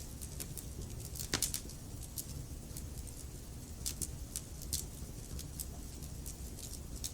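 Wood fire crackling in a fireplace: irregular sharp snaps and pops over a low steady rumble, with a cluster of louder pops about a second and a half in.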